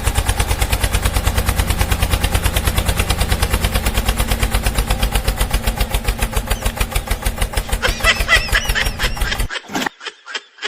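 Tractor engine chugging with a steady, even beat of about seven pulses a second, then cutting off abruptly near the end.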